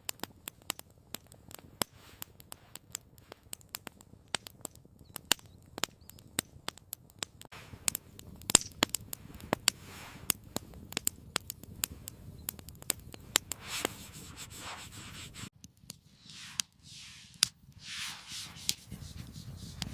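Wood campfire crackling, with many irregular sharp pops and snaps over a low steady rumble, and a few short rustling swells near the end.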